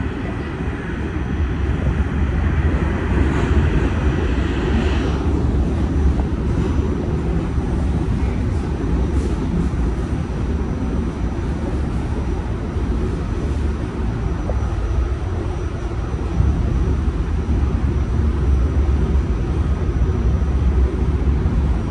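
New York City subway train running through a tunnel, heard from inside the car: a steady, loud rumble of wheels on track, with a higher hiss that fades out about five seconds in.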